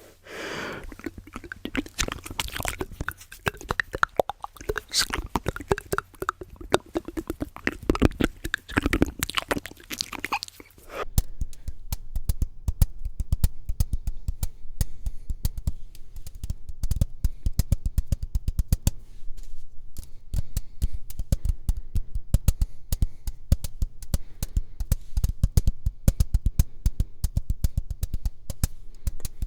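Close-up ASMR mouth sounds, wet clicks and smacks, for the first ten seconds or so. About eleven seconds in they give way to fast, even rhythmic tapping with low thuds, layered into a beat.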